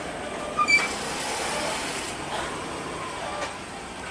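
Steady vehicle and traffic noise, with a short sharp clatter and a brief high beep a little over half a second in.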